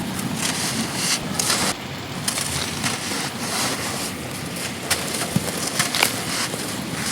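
Lumps of pure sand being crushed and crumbled: gritty crackling with many sharp snaps over a steady hiss.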